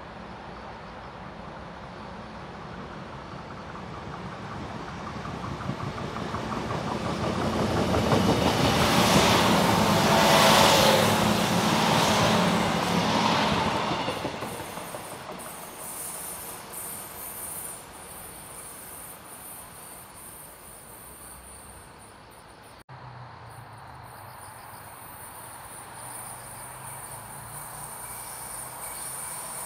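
Passenger train approaching and running past close by, growing louder to a peak a few seconds either side of ten seconds in, then fading away. A low rumble builds again near the end.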